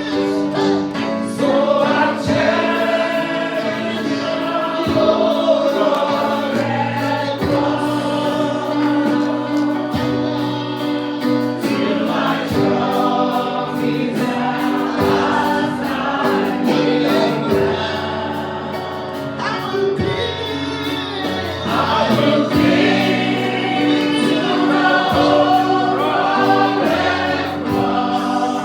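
Choir and congregation singing a gospel worship song with musical accompaniment.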